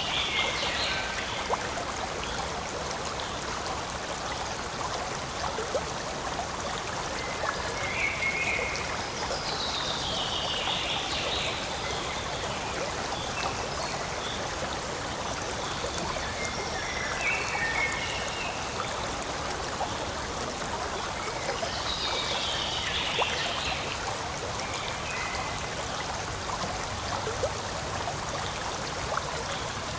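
A forest stream flowing steadily over stones, trickling and gurgling. Three times, about ten seconds apart, a high call falls in pitch, with a few short chirps in between.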